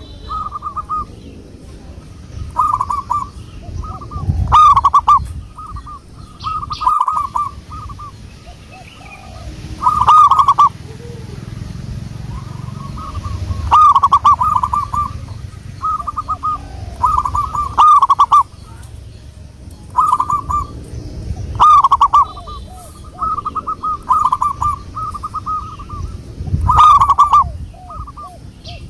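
Zebra dove singing its cooing song: phrases of short, quick-fire stuttering notes, repeated every one to three seconds.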